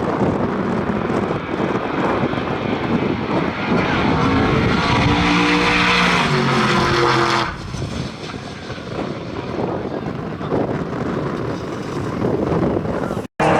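Drag-racing engines at full throttle on a run, loud for about seven seconds with the pitch climbing near the end, then dropping suddenly to a lower rumble.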